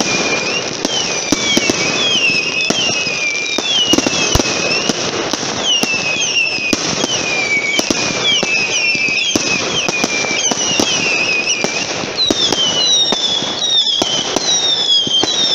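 Fireworks going off: a continuous tangle of overlapping shrill whistles, each falling in pitch, with sharp cracks and pops scattered throughout.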